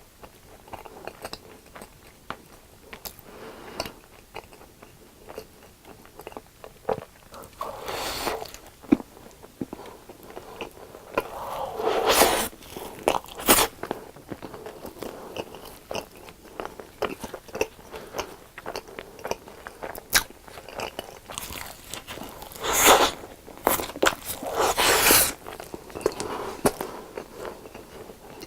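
Close-miked crunching and chewing of crisp fried food, with a steady run of small crackles between several louder, crunchier bites.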